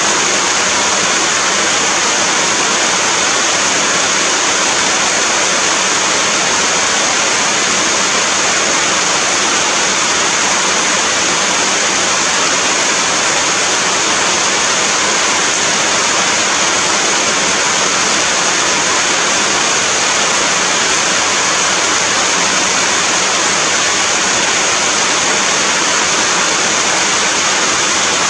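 Heavy rain pouring down steadily: a loud, even hiss of falling water with no let-up.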